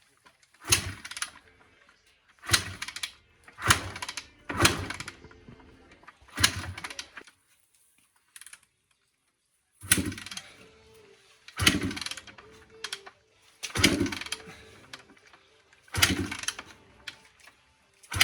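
A 2003 Honda CR250 two-stroke dirt bike being kick-started over and over: about five kicks roughly a second apart, a short pause, then about five more. Each kick turns the engine over briefly without it catching, which the riders put down to a carburettor that needs cleaning.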